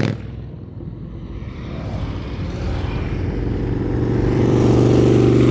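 A vehicle engine running at a steady pitch, getting steadily louder.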